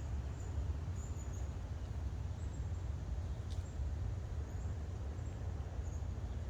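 Outdoor forest ambience: a steady low rumble on the microphone, with faint high chirps now and then and a single brief click about three and a half seconds in.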